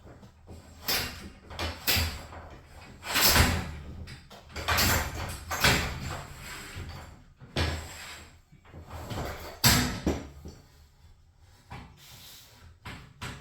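Irregular knocks, clanks and rattles from work on a garage door and its hardware during a torsion spring replacement, with two louder bangs, one a few seconds in and one near ten seconds.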